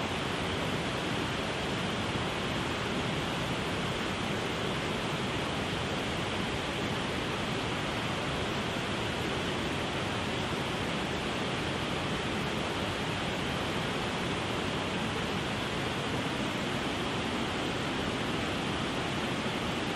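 Steady rushing water, an even unbroken hiss and rumble of flowing water like a waterfall or fast stream.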